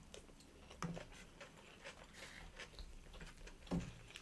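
Quiet chewing and small mouth noises of people eating, with a couple of soft short clicks, one about a second in and one near the end.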